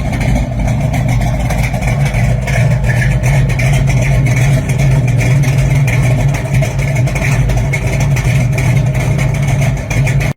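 Big-block V8 of a gasser-style drag car running steadily with a loud, deep exhaust note.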